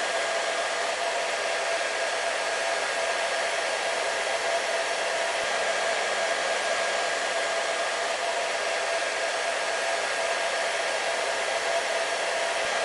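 Hair dryer running steadily: an even rush of blown air with a constant motor tone humming underneath, unchanging throughout.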